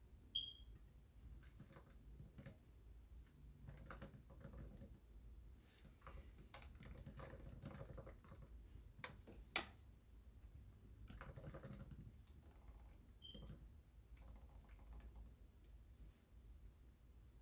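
Faint computer keyboard typing in irregular bursts of key clicks. A brief high chirp sounds about half a second in and again near the 13-second mark.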